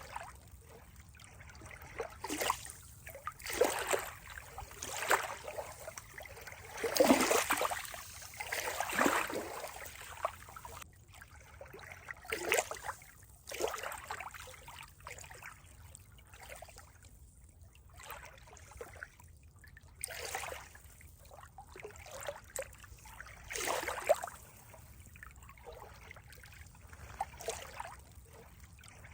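Water trickling and splashing in irregular bursts, one every second or two, some louder than others.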